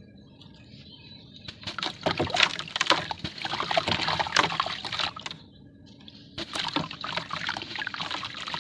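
Red dirt crumbling and being crushed, with dense crackling in two spells: one starting about a second and a half in and lasting about three and a half seconds, and another from about six and a half seconds on.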